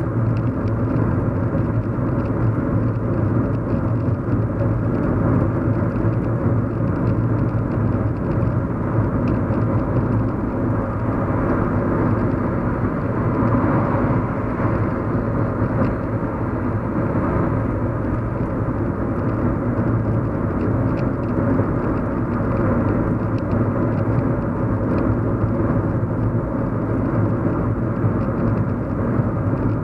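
Steady road hum inside a moving car's cabin: low engine and tyre rumble, with a slight swell in the middle.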